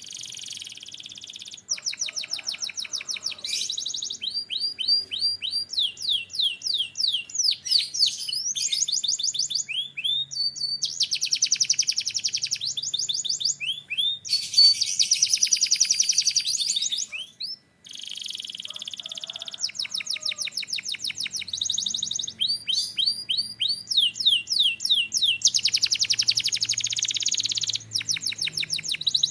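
Domestic canary singing a long, high-pitched song of rapid trills and repeated phrases, one tour after another, with a brief pause a little past the middle.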